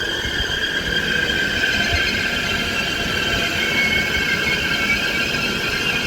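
Transport for Wales Class 197 diesel multiple unit slowing into the platform, its brakes giving a steady high-pitched squeal over a low rumble.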